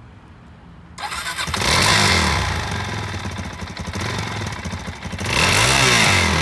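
Suzuki DR-Z400E's single-cylinder four-stroke engine starts about a second in, catches and runs. The throttle is blipped so the revs rise and fall, with another rise and fall near the end.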